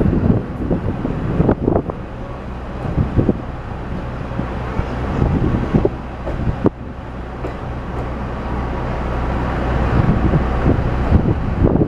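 Two-car KiHa 40 series diesel railcar running slowly through yard tracks, heard from inside the car: a steady diesel engine hum with running noise and several sharp wheel knocks over rail joints and points.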